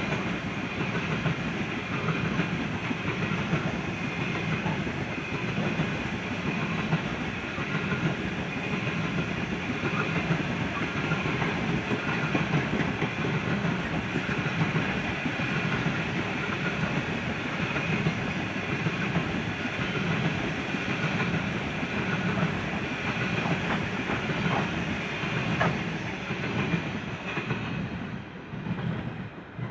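Grain hopper wagons of a freight train rolling past: a steady rumble of steel wheels on rail with a regular beat from the rail joints. The sound breaks up and drops away near the end as the last wagons go by.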